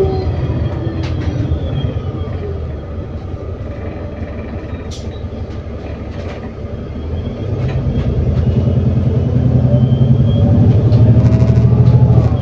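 ADL Enviro400 City double-decker bus heard from on board, its engine and Voith automatic gearbox running. For the first half the engine rumbles quietly; from about halfway it picks up hard, the rumble and a rising gearbox whine growing loud, then dropping off suddenly at the very end as the gearbox changes up or the throttle eases.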